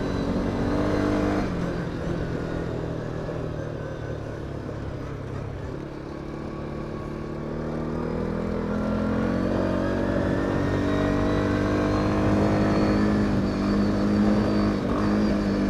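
CFMOTO CFORCE 550 quad's single-cylinder engine heard from on the bike. The throttle eases off about a second and a half in and the engine note falls for several seconds. It picks up again from about seven seconds in and then holds steady at cruising speed.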